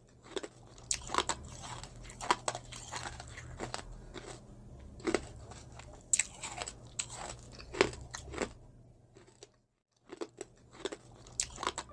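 Close-miked biting and chewing of crisp cucumber salad: sharp, wet crunches at irregular intervals, with a brief pause a little before the end.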